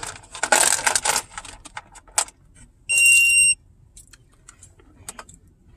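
Zmoon tire pressure monitor sounding one loud, high-pitched alarm beep about three seconds in, its low-pressure warning for a front right tire that is low. Before it, a brief burst of rattling and rustling with a few clicks.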